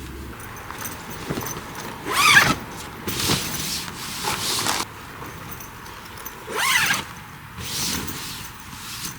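Korean water deer (gorani) calling: two harsh, screaming barks about four and a half seconds apart, with fainter rasping sounds between them.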